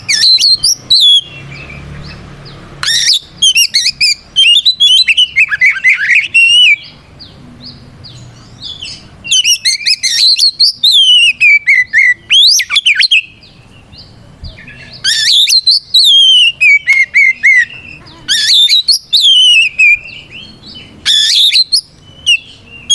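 Oriental magpie-robin (kacer) singing its loud, clear fighting song, a territorial call that challenges a rival. It sings in bursts of rapid, sweeping whistled notes a few seconds long, with short pauses between phrases.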